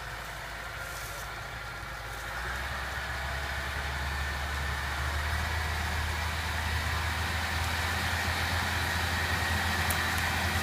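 HOWO 4x4 light truck's engine running, growing louder and pulling harder from about two seconds in, with a faint whine above the low drone.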